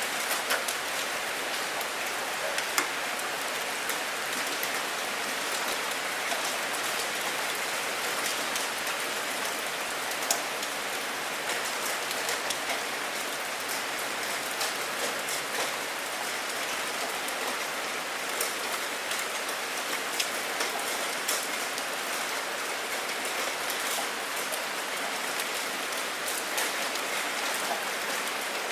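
Steady rain falling, with individual drops ticking sharply on a surface and a couple of louder drips.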